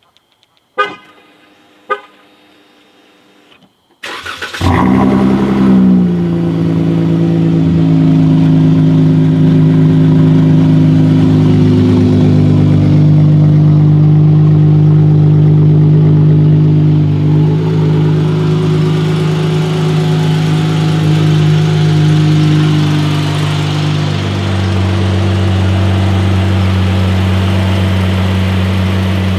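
Two short chime-like tones, then a 2015 Dodge Charger's 3.6-litre Pentastar V6 is started about four seconds in: the starter catches, the revs flare briefly, and it settles into a steady fast idle through a resonator-deleted exhaust. About 24 seconds in the idle drops to a lower, steadier note.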